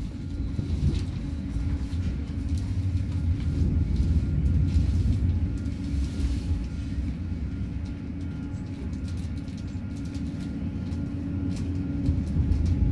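Swiss passenger train running slowly, a steady low rumble heard from inside the carriage, with faint scattered clicks.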